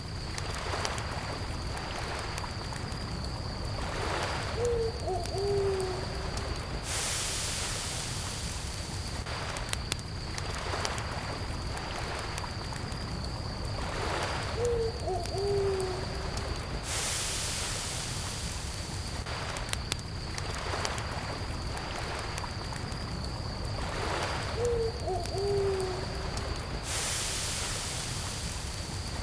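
Campfire crackling, with a steady high cricket drone and a soft wash of lake water swelling for about two seconds every ten seconds. A short, low two-note hoot comes three times, about ten seconds apart.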